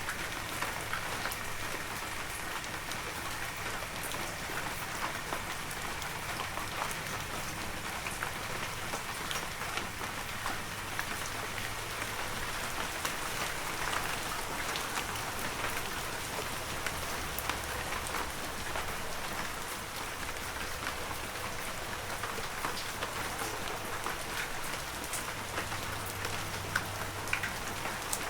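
Heavy rain falling steadily: a dense, even hiss of rain with many individual drops pattering on surfaces.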